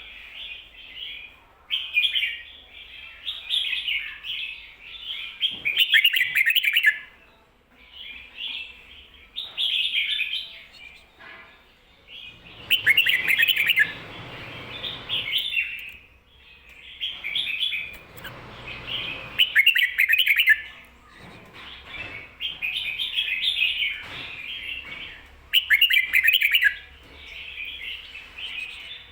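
Red-whiskered bulbul singing its doubled 'kho-ta-ra' song: bright, warbling phrases repeated over and over, each a second or two long with short pauses between.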